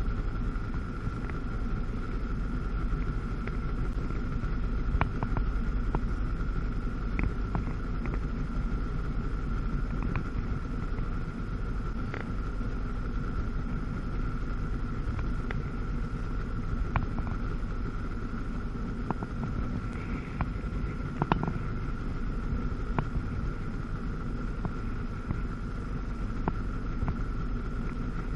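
Two-stroke personal watercraft engine, a 1997 Sea-Doo GTS's 720 twin, running at a steady speed under a steady rumble of water and wind. Scattered short clicks sound throughout.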